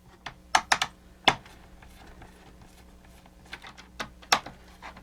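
Sharp clicks and knocks of the parts of a mechanical animated display being handled and pried loose during disassembly, a quick cluster in the first second or so and another near the end.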